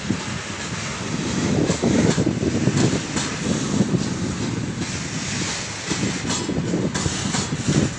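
Loaded freight train rolling past at speed: a steady rumble of wagon wheels on the rails, with repeated clacks as the wheels cross rail joints.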